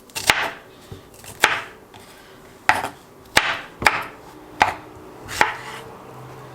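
Kitchen knife chopping fruit into small pieces: about seven separate sharp chops at an uneven pace.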